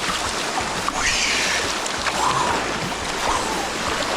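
Steady rush of a small waterfall pouring into a pool, with a splash of water about a second in.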